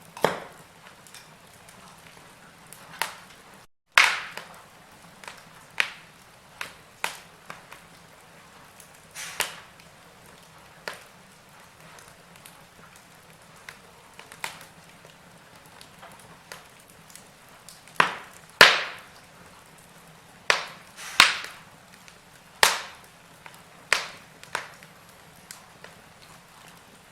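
Burning wood logs crackling: irregular sharp pops and snaps, some loud and some faint, over a low steady hiss, with a run of louder pops in the second half. The sound cuts out for a split second about four seconds in.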